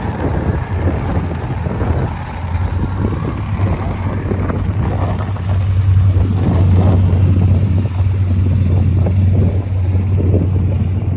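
A car engine running with a steady low rumble and uneven pulsing, getting a little louder about six seconds in.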